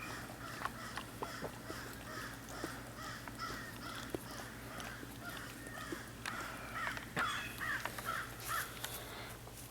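An animal calling over and over in short calls, about two or three a second, growing louder and more ragged near the end, over a steady low hum.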